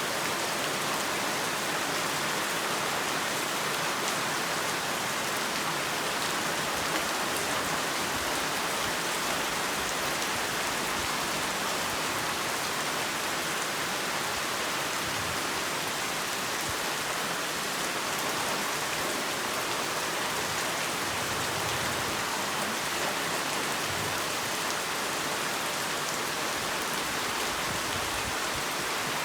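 Heavy rain falling steadily, a dense even hiss of many drops striking surfaces, with no let-up or change.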